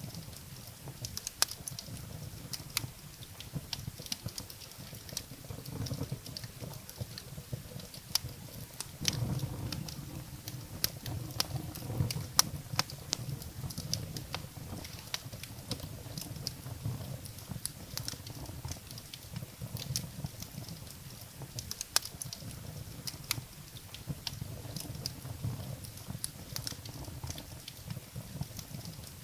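Wood fire burning in a fireplace: irregular sharp crackles and pops of burning firewood over a steady low rumble of the flames.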